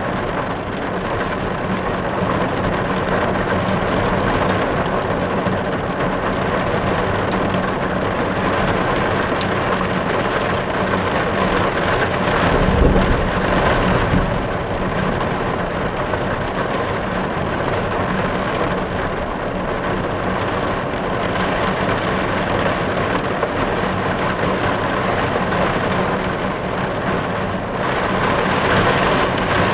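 Rain falling steadily on a car's roof and windows, heard from inside the cabin as a dense, even patter. A brief low rumble swells about halfway through.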